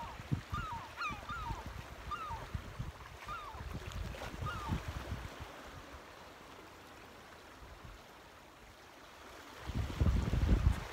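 A bird calls over and over in short notes that rise and fall, through the first five seconds or so. Wind buffets the microphone throughout, with a strong gust of rumbling near the end.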